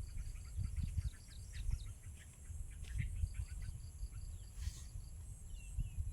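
Rural outdoor ambience: a bird chirping in quick even runs of about five notes a second, twice, over steady high insect drone, with a short bird call near the end. Beneath it, low rumbling and scattered light clicks and knocks.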